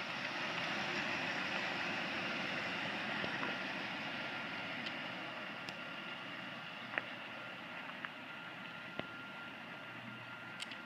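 Steady running noise of a car: an even hiss with a faint steady whine, a few light clicks, and a level that slowly sinks.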